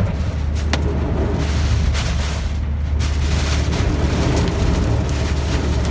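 Typhoon wind buffeting a moving car, heard from inside the cabin as a deep, steady rumble under a rushing hiss, with a few sharp clicks.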